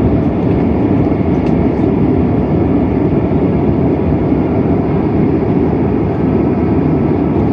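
Steady cabin noise inside a Boeing 767-300ER airliner taxiing after landing: an even low rumble from the idling jet engines and cabin air system.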